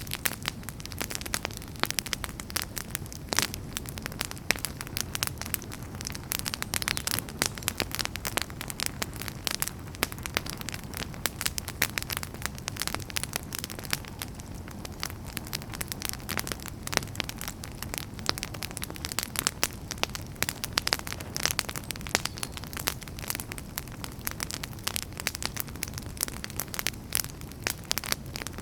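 Wood fire burning in a fireplace: a steady low rumble of the flames with dense, irregular sharp crackles and pops, several a second.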